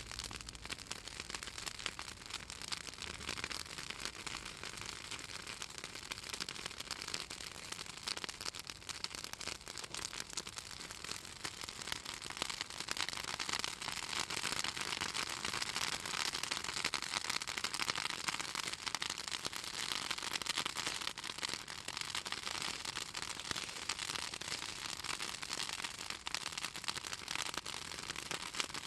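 Bonfire of pruned southern magnolia branches burning with dense, rapid crackling and popping, from the oil in the wood and leaves. The crackling grows a little louder about halfway through.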